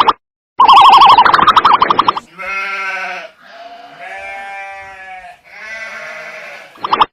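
A loud, rapidly warbling tone for the first two seconds, then an animal bleating three times, each call about a second long with a slight rise and fall in pitch. The warbling tone comes back briefly at the end.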